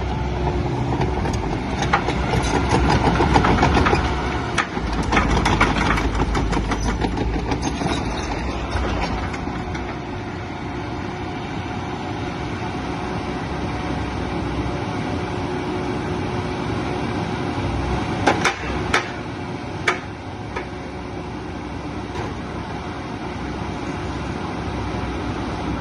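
Diesel engine of a JCB JS145LC tracked excavator running, louder for the first several seconds and then settling to a steady idle, with a few sharp metallic clanks near the end.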